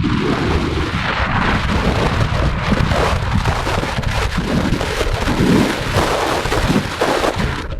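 Heavy wind buffeting on the microphone mixed with motorcycle engine and road noise while riding, a constant loud rumbling roar.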